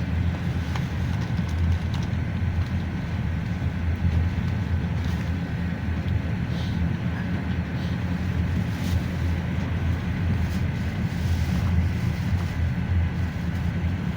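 Cabin ride noise of a GAZelle Next minibus under way: a steady low rumble of engine and road, with a faint steady whine and a few light rattles.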